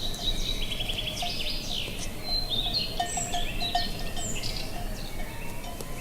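Songbirds singing in quick, varied chirping phrases, with cattle cowbells clinking softly again and again beneath them, over a steady low rumble of wind.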